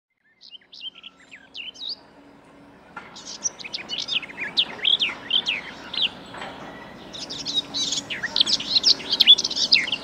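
Small songbirds chirping and singing: a few scattered calls at first, then from about three seconds in a dense chorus of quick, overlapping high chirps from several birds.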